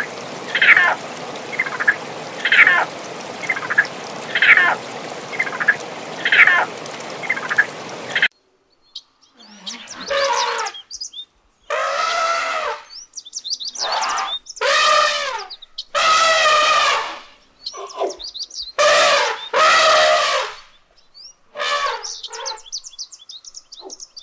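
Birds calling. First comes a short call repeated about once a second over a steady hiss. After a cut, louder calls of about a second each alternate with fast, high chirps.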